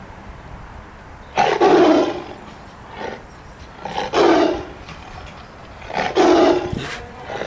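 Tiger roaring: three loud, rough roars about two seconds apart, with a weaker one between the first two.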